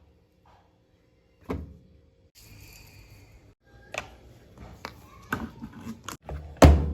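Several sharp plastic knocks and thumps from handling a top-loading washing machine, the loudest thump near the end.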